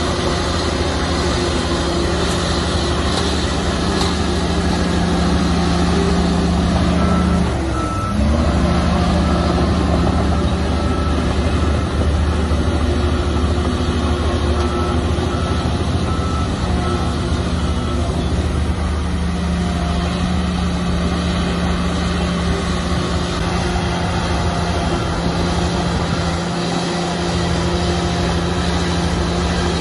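Heavy diesel engine of earthmoving machinery running steadily; its pitch dips briefly and picks up again about eight seconds in. A reversing alarm beeps in an even series from about seven seconds in until about eighteen seconds in.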